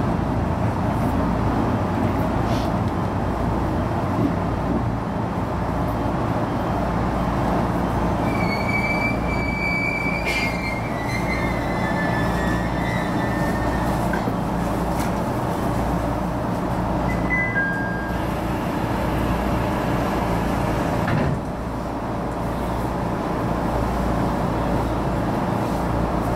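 HB-E210 hybrid diesel railcar running steadily along the track, with a continuous rumble of wheels and drive. Partway through, a high wheel squeal slides down in pitch for a few seconds, followed later by two short squeaks. The running noise drops suddenly about four-fifths of the way through.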